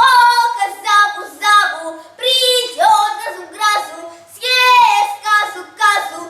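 A child singing a melody in short phrases, one voice carrying the tune.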